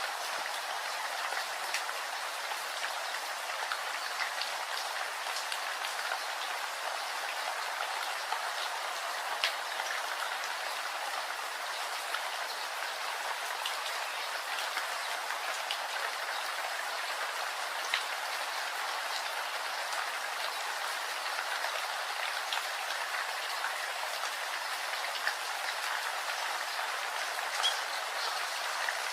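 Steady rain: a dense, even hiss with scattered sharper ticks of single drops striking a surface.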